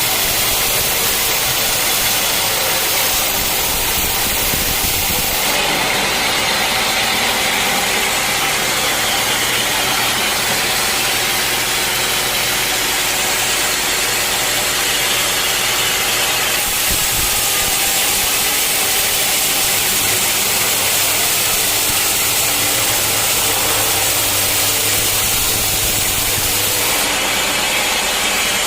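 Sawmill machinery running: a steady engine drone under a loud hiss, as the saw cuts teak. The mix changes suddenly a few times.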